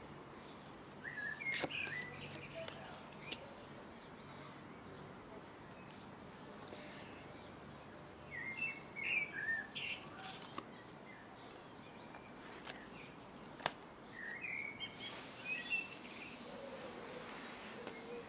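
Small birds chirping in three short flurries of quick high notes over a steady outdoor hiss, with a few sharp clicks in between, one of them the loudest sound.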